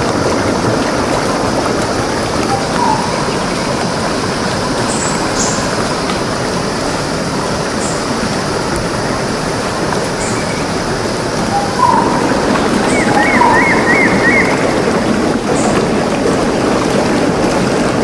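Steady rushing water of a forest stream, with birds calling over it: short high chirps every second or two, and a quick run of about five notes near the middle.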